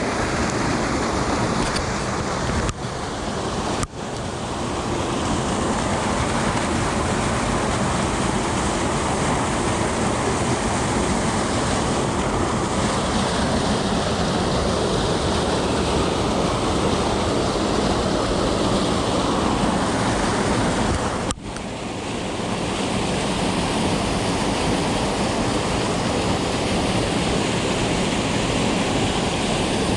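Rushing water of a small creek's rapids, a loud steady rush, briefly broken off about 3, 4 and 21 seconds in.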